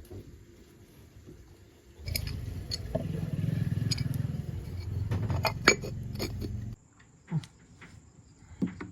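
Yamaha RX 135 two-stroke single-cylinder engine running briefly with a steady low pulsing, with a few sharp metallic clicks, then cutting off suddenly. It starts about two seconds in and stops near seven seconds.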